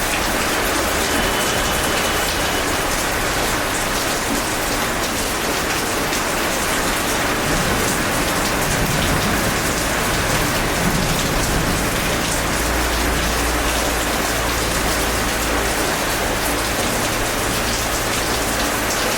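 Steady heavy rain falling and pattering on surfaces, with a faint low rumble swelling in the middle.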